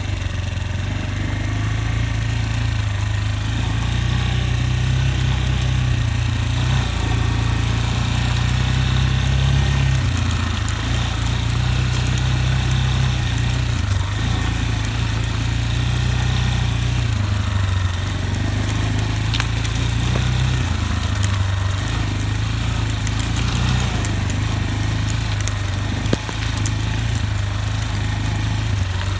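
Motorcycle engine running steadily at low revs, its pitch stepping up and down a little.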